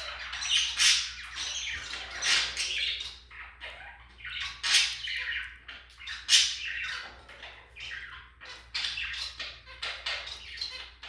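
Pet budgerigars chattering: continuous rapid warbling and scratchy squawks, with a few louder squawks standing out.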